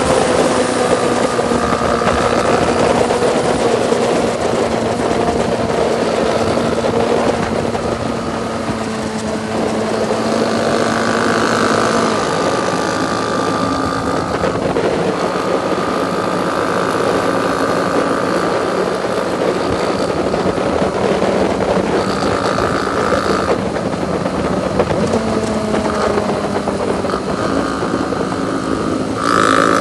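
Motorcycle engine running steadily while riding, its pitch drifting slightly up and down with small changes in speed.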